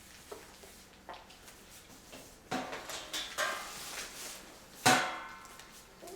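A puppy feeding dish clattering and knocking as the Labrador puppies eat from it and push it about, with a run of clatters in the middle and one sharp, ringing clank about five seconds in.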